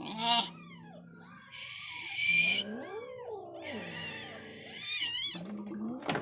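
Cats meowing and yowling in rising-and-falling calls, with two longer hissing stretches about one and a half and four seconds in.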